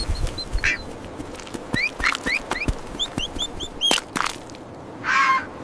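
Duckling peeping in quick runs of short, high chirps, most of them rising, with a few sharp clicks between them and a brief louder, rougher burst near the end.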